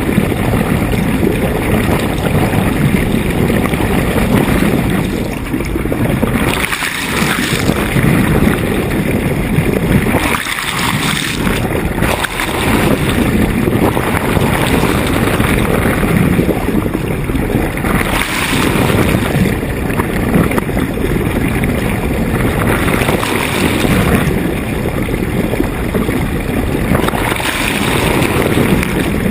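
Wind buffeting the microphone over water rushing along a sailboat's hull, with a few louder surges of splash and hiss.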